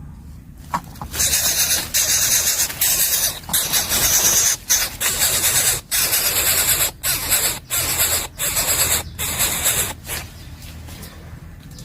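Coucal nestling giving loud, harsh hissing rasps in long stretches broken by brief pauses, typical of a chick begging or struggling at the nest.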